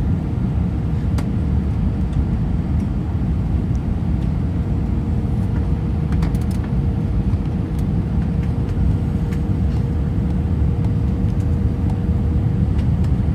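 Steady low rumble of an Airbus A320's engines and rushing air, heard inside the passenger cabin on final approach, with a faint steady hum above it.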